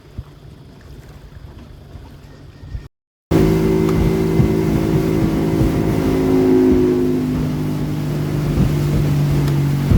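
A motorboat engine running steadily and loudly, starting abruptly about three seconds in after a moment of quieter wind noise on the microphone.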